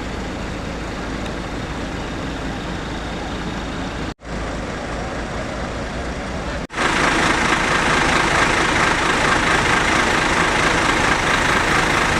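Steady running noise of a motor vehicle on the road, in three short clips joined by abrupt cuts; the last clip, from about seven seconds in, is louder and brighter.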